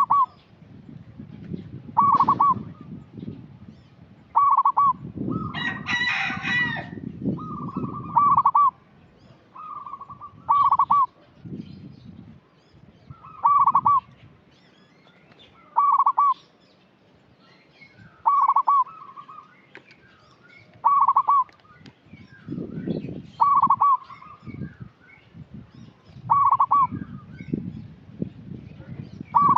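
Zebra dove (perkutut) cooing, repeating its short song phrase about every two to three seconds, with a brief higher, scratchier burst about six seconds in.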